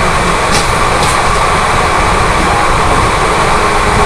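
Two Indian Railways express trains crossing at speed, heard from an open coach door: a loud, steady rush of wheels, coaches and air as the other train's coaches pass close alongside, over a heavy rumble.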